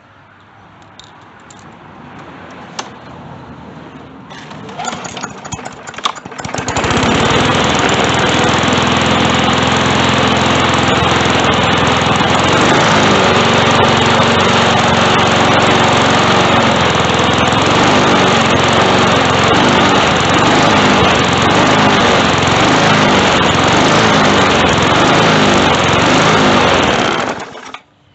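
Briggs & Stratton 140–148cc walk-behind mower engine running loud after some clicking and knocking, its speed wavering up and down: surging, which the owner puts down to a governor spring too weak to hold it steady. It cuts off suddenly near the end.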